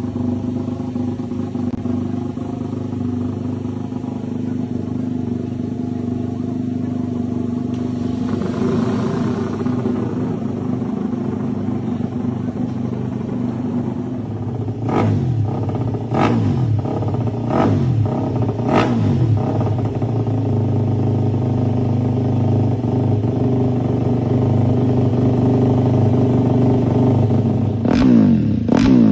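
Moto3 racing motorcycles' single-cylinder four-stroke engines warming up. They idle steadily, then about halfway through come four sharp throttle blips roughly a second apart, with more quick blips near the end.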